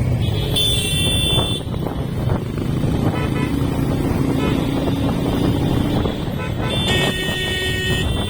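Road traffic and motorcycle engine rumble, with vehicle horns honking: a short blast about half a second in and a longer one near the end.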